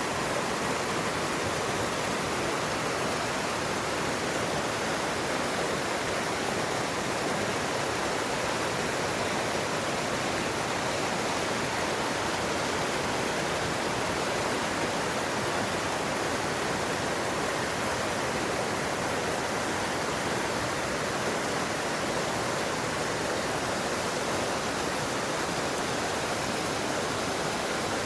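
Mountain stream water rushing over rocks: a steady, unbroken rush of water.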